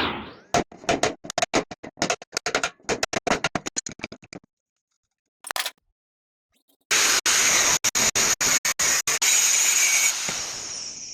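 Workshop power-tool noise in many short bursts, chopped by quick edits, with a couple of seconds of dead silence partway through. In the last few seconds comes a denser, hissing grinding-type noise broken into rapid chunks, which fades out near the end.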